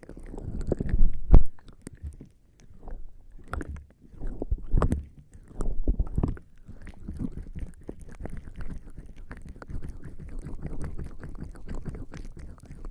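Bare skin slick with lubricating jelly rubbing and pressing against a binaural microphone's ears. Deep, muffled rubbing comes in several strokes over the first six seconds, then turns to steadier, quieter rubbing with small crackles.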